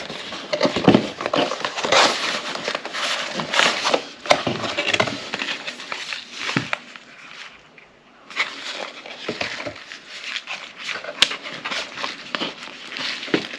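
Packaging of a wireless microphone kit being opened and handled by hand: irregular rustling, scraping and sharp clicks, dropping quieter for a moment a little past halfway.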